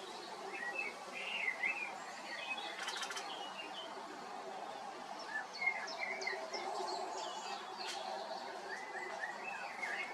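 Small birds chirping and singing in short, repeated phrases over steady background noise, with a quick run of sharp clicks about three seconds in and a single click near eight seconds.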